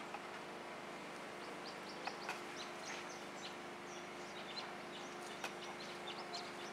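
Birds chirping in many short, high calls over quiet background noise and a faint steady hum.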